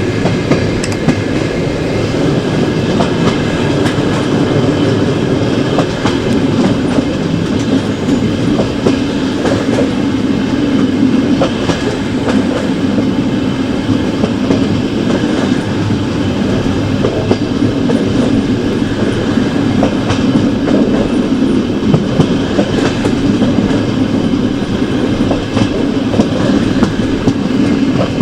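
Passenger train running steadily: a constant rumble of the carriage wheels on the track, with scattered clicks and knocks from rail joints.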